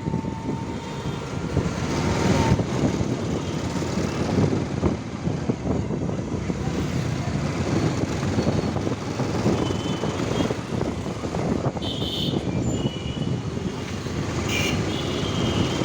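Motorcycle on the move: wind rushing over the microphone over engine and road noise. A couple of short high-pitched sounds come about two-thirds of the way in and near the end.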